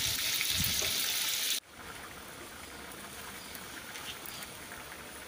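Pork and chicken pieces sizzling in a hot wok, a loud steady hiss that cuts off abruptly about one and a half seconds in. Then the chicken and pork simmering in adobo sauce in the wok, a quieter bubbling.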